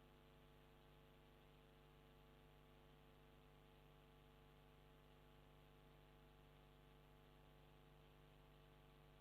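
Near silence, with only a faint, steady electrical hum and hiss from the recording chain.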